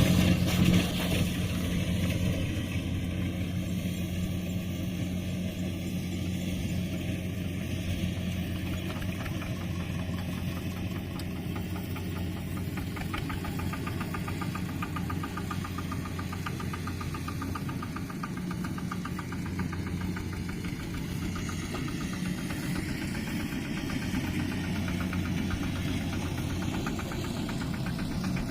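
Mini tractor's engine running steadily with an even knocking beat.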